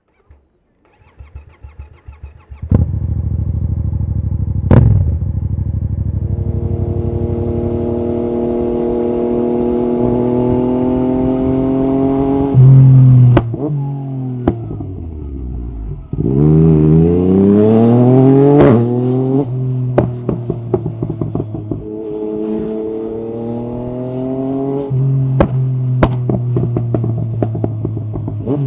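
Yamaha MT-09 SP's three-cylinder engine through an Akrapovic carbon Racing-Line exhaust: starts up about three seconds in and blips once. It then pulls away, its note rising steadily, drops back and climbs steeply again around halfway, then runs at a steadier pitch.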